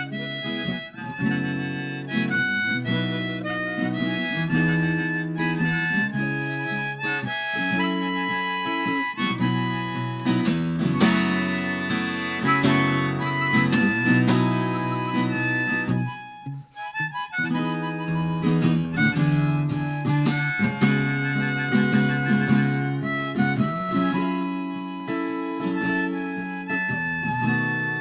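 A band playing an instrumental break of a song without singing, with a brief drop-out about two-thirds of the way through.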